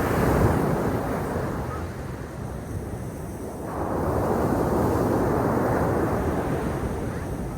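Sea waves washing onto the shore in two surges: one at the start, easing off, and a second building about four seconds in, then receding.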